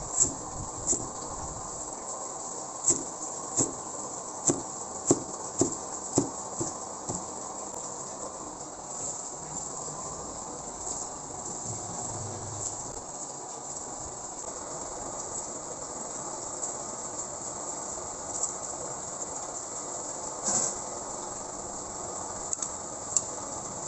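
Close-up eating of noodle soup: a quick run of short mouth and utensil sounds over the first seven seconds, then only a few, heard over a steady hiss.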